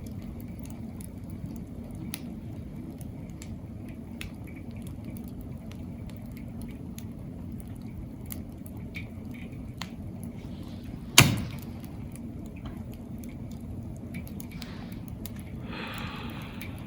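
Wood campfire burning: a steady low rumble with scattered small crackles and pops, and one loud, sharp pop about eleven seconds in.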